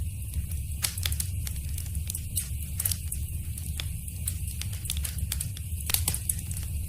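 Wood fire crackling in a fireplace: irregular sharp pops and snaps over a steady low rumble of the burning fire. The loudest pops come about a second, three seconds and six seconds in.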